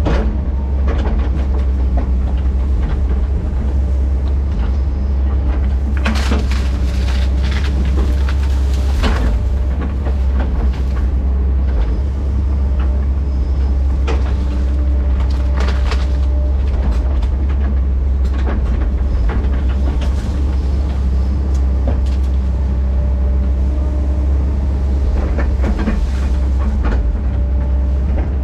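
Diesel engine of a heavy earthmoving machine running steadily, with scattered sharp metallic clanks and knocks.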